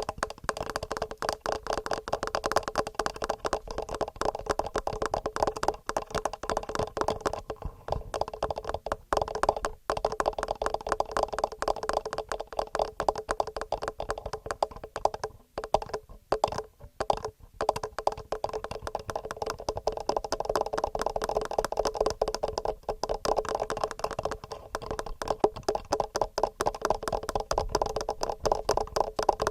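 Fast, continuous fingernail tapping on a TASCAM portable recorder and its built-in microphones: a dense run of clicks many times a second, with a few short breaks around the middle.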